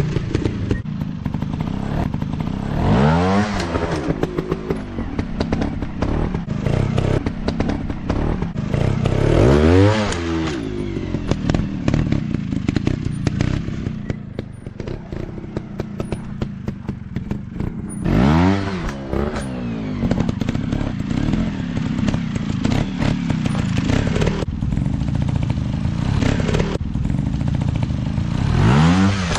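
Small trail motorcycle engine running and being revved hard four times, each rev climbing sharply in pitch and dropping back within about a second. Clattering knocks sound over the engine throughout.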